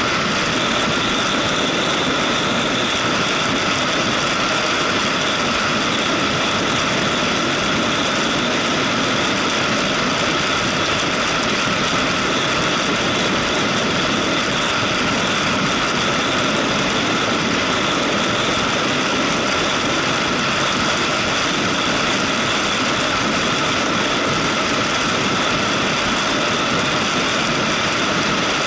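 Motorcycle riding at a steady pace: engine running with a constant rush of wind and road noise.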